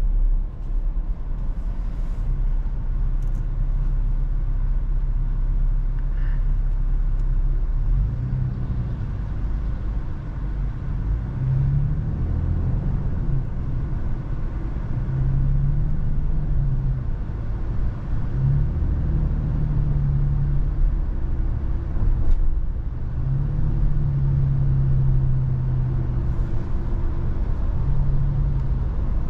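Toyota FJ Cruiser's 4.0-litre V6 engine and road noise while driving: a steady low rumble, with the engine note rising and falling again and again from about a third of the way in.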